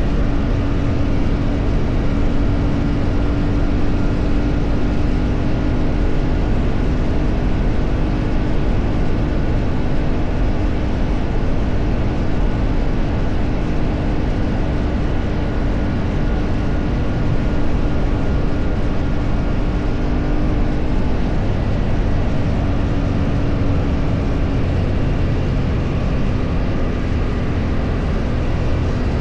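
A motor vehicle's engine running at a steady speed under a heavy, even rush of road and wind noise, with one steady engine tone that shifts slightly near the end.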